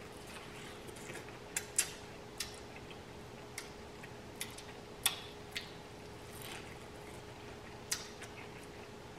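Close-miked chewing of boiled corn on the cob: about a dozen crisp, irregular clicks and smacks as kernels are bitten and chewed, over a faint steady hum.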